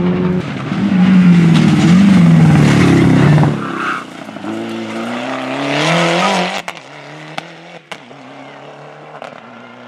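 A rally car's engine passing close at high revs. About three and a half seconds in it lifts off, then accelerates again with rising pitch and moves away, fading to a quieter steady drone. A few sharp cracks come near the end.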